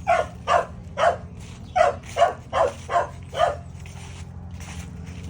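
A dog barking eight times in quick succession, in a run of three and then a run of five, over the first three and a half seconds.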